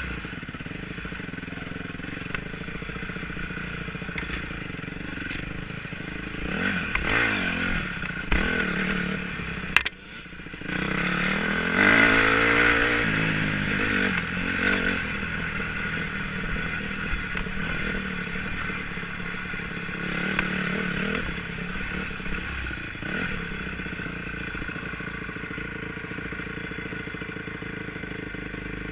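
Enduro motorcycle engine running off-road, revving up twice with the loudest rise about twelve seconds in. A sharp knock and a brief drop in engine sound come just before it, over a steady clatter from the bike.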